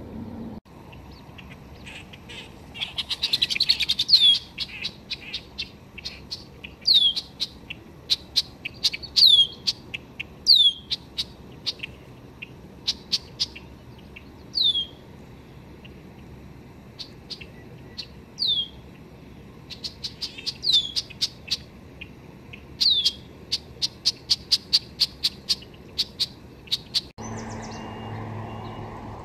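Small birds singing: rapid high chips and repeated sharp downward-sliding whistled notes, with a dense fast run of notes about three seconds in. Near the end the birdsong stops abruptly and a steady low hum takes over.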